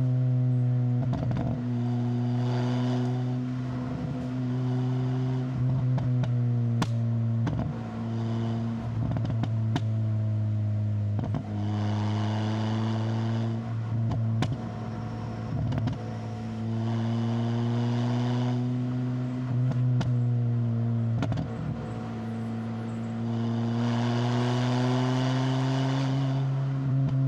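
Proton Inspira's 2.0-litre 4B11 MIVEC inline-four engine running through a MAX Racing R5500 muffler while pulling uphill. The note stays fairly steady in pitch but swells and eases several times as the throttle is opened and lifted, with scattered short clicks.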